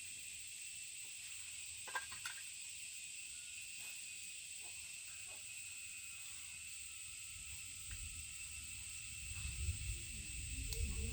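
Steady high-pitched insect drone in two constant tones, with a few faint clicks. Low rumbling handling noise builds near the end.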